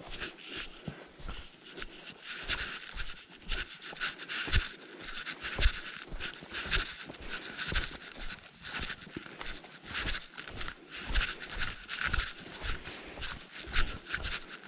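Footsteps and rustling through dry leaf litter: an irregular run of crunches, several a second, with soft low thuds underneath.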